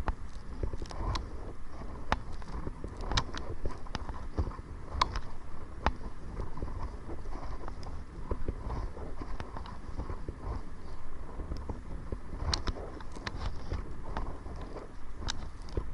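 Kayak paddling into the wind: irregular splashes and clicks of the paddle working the water, over a steady rumble of wind on the microphone.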